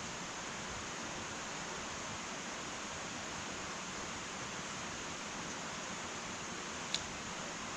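Wood fire burning in an irori hearth with a steady hiss, and one sharp crackle near the end.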